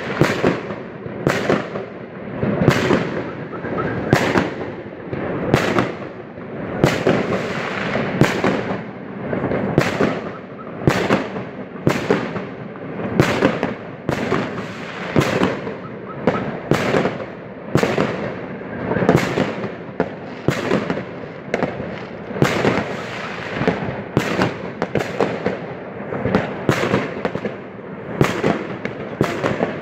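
Many fireworks going off across a city at once: a near-continuous barrage of bangs and crackling, several reports every second, with no let-up.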